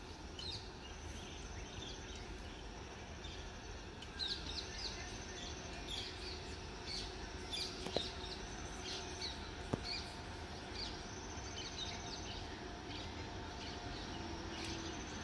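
Birds chirping and calling over and over, with a repeated high buzzing trill that comes in spells of about a second, and a steady low background rumble. Two sharp clicks stand out near the middle.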